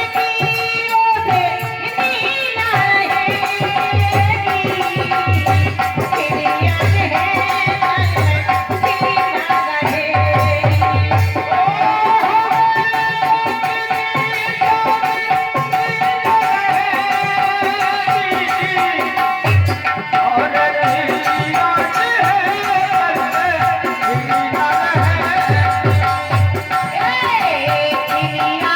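Instrumental interlude of Indian folk music: a sustained melody instrument playing over steady hand-drum rhythm, with repeated deep bass drum strokes.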